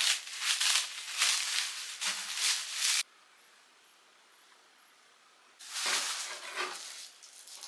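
Plastic bag rustling and crinkling as things are packed into a box. It cuts off abruptly about three seconds in, stays quiet for a couple of seconds, then starts again.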